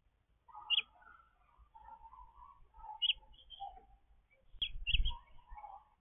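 Small birds chirping and twittering in short, scattered calls, picked up by the feeder camera's microphone, with a low bump just under five seconds in.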